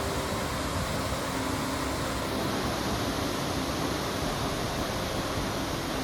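Waterfall pouring steadily: the constant rush of Ryumon Falls, a 46 m high, 43 m wide cascade.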